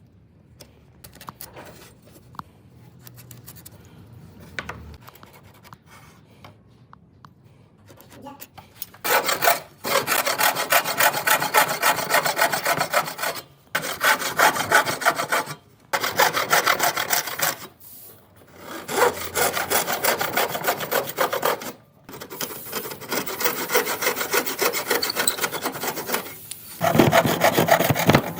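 A hand tool working wood, rasping or sawing, in runs of several seconds with short pauses between them, starting about nine seconds in after a quieter stretch.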